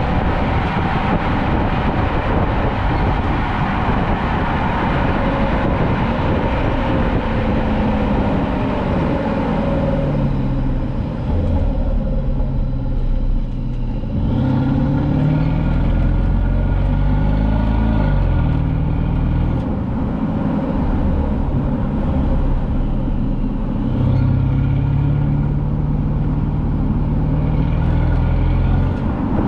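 Exhaust of a 2015 Mercedes-Benz S550's twin-turbo V8 with its resonator deleted, heard while the car is driven. Over road and wind noise, the engine note falls and rises several times from about ten seconds in, then holds steady for a few seconds near the end.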